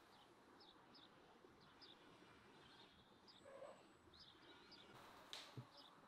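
Near silence with faint, scattered bird chirps in the background and one soft knock about five seconds in.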